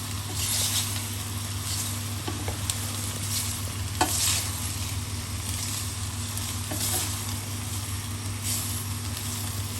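Pasta, chicken and onions being stirred in a hot pan, sizzling steadily, with a spoon scraping round the pan every second or two and one sharp knock about four seconds in. A steady low hum runs underneath.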